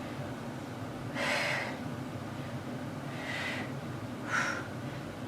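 A woman breathing hard through a set of tricep dips: three forceful exhales, about a second in, about three seconds in, and a shorter, sharper one near the end.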